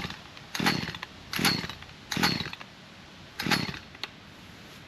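Chainsaw's recoil starter cord yanked five times in quick succession, the engine turning over briefly with each pull without catching: the saw will not start.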